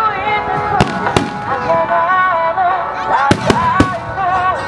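Aerial firework shells bursting as sharp reports, two about a second in and three more around three and a half seconds in, over a song with a wavering sung melody.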